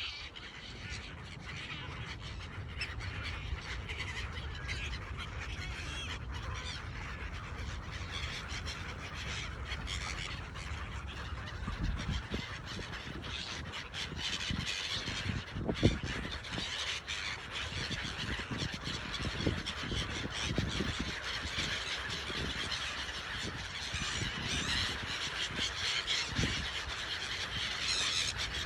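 A flock of gulls calling constantly at feeding time, many overlapping squawks and cries, over a steady low rumble. A single sharp knock sounds about halfway through.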